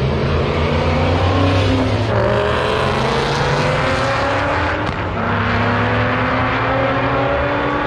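Street car's engine accelerating hard at full throttle, its pitch climbing and dropping back with gear shifts about two and five seconds in.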